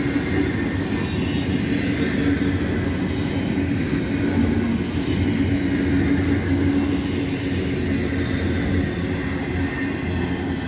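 Empty double-stack intermodal well cars rolling past, a steady rumble of steel wheels on the rails.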